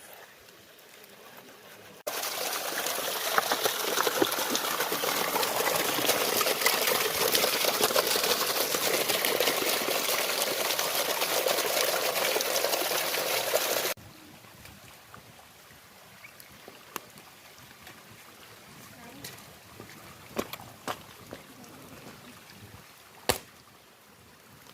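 Running water, loud and steady, that cuts in abruptly about two seconds in and cuts off just as abruptly about twelve seconds later. A quiet stretch follows with a few light clicks and taps, the sharpest near the end.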